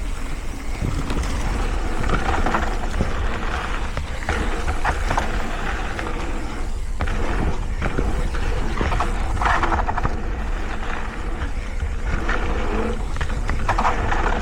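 Vitus Mythique trail bike riding fast down a dirt downhill trail: continuous tyre and rattling noise with repeated brief louder scrapes, over a steady low wind rumble on the microphone.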